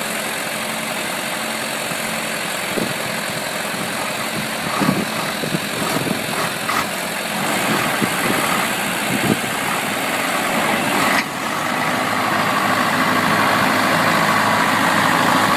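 A vehicle engine running steadily, with several knocks and clunks in the middle. About eleven seconds in, the sound shifts suddenly and grows a little louder.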